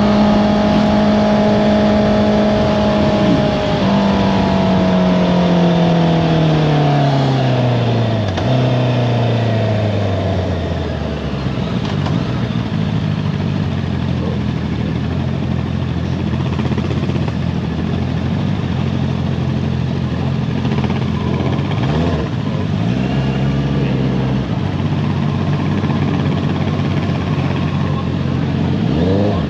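Honda CBR650R's inline-four through an Akrapovic exhaust, held at high revs and then shifting about three seconds in. The revs fall steadily over the next several seconds as the bike slows, then settle lower with brief throttle rises about two-thirds of the way through and again near the end.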